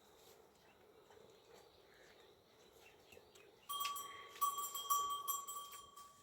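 Metallic bell-like ringing: one steady held tone with rapid jingling over it. It starts suddenly about two-thirds of the way in and stops abruptly near the end.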